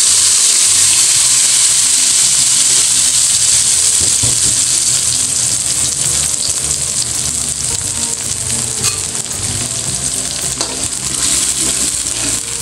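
Wet ground chili paste sizzling in hot cooking oil in a wok as it is poured in and sautéed, loudest in the first few seconds and then settling to a steady sizzle. Near the end a spatula stirs and scrapes through the paste.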